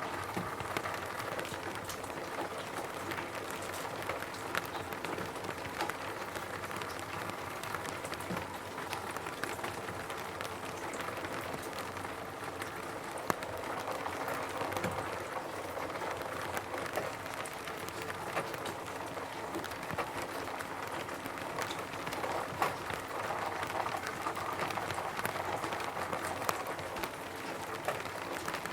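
Steady rain falling on a roof. A dense patter of drops hits the surface, with scattered louder single taps.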